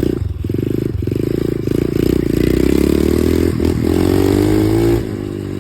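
Dirt bike engine running under throttle, its pitch climbing steadily through the middle and then falling away suddenly near the end as the throttle is closed.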